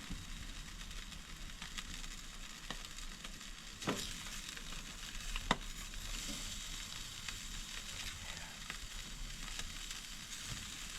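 Chicken legs sizzling on a barbecue grill, nearly cooked, with a steady hiss and a couple of sharp pops about four and five and a half seconds in.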